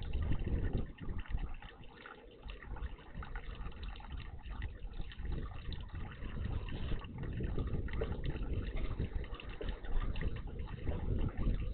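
Water splashing and gurgling in a garden bird bath, an uneven continuous rush that swells and fades.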